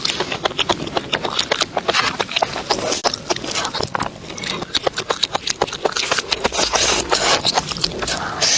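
Close-miked chewing of crunchy food: a dense run of sharp crackles and crunches.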